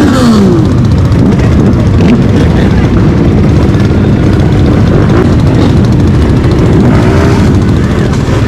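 Motorcycle engines running loudly and revving. The pitch of one rev falls away right at the start, and there are further rises and falls of engine pitch about seven seconds in.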